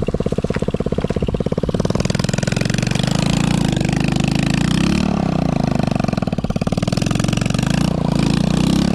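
Single-cylinder four-stroke engine of a small 110cc ATV, idling with a steady putter, then opened up about two seconds in. It is held at high revs for a donut, its pitch wavering up and down.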